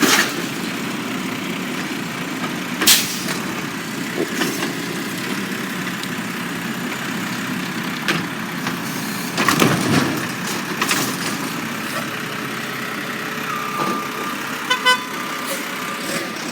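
Garbage truck engine running steadily, with several sharp bangs and clanks, and a short burst of beeping near the end.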